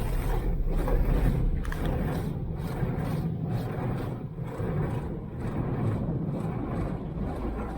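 Automatic car wash machinery heard from inside the car: a steady low rumble with water spraying on the body, pulsing about once a second.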